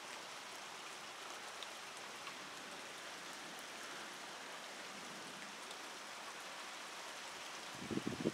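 Steady rain falling, an even hiss with the odd faint drop tick. Near the end a brief cluster of louder low knocks or sounds begins.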